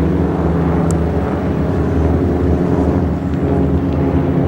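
Propeller aerobatic airplane's piston engine running steadily overhead, a loud, even drone with no large change in pitch.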